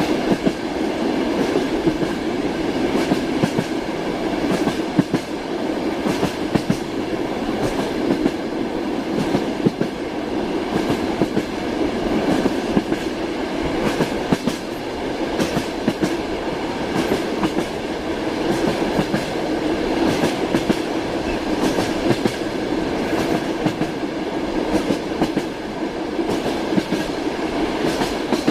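Train wheels rattling along the rails in a steady run: a continuous rumble with repeated clicks as the wheels pass over rail joints.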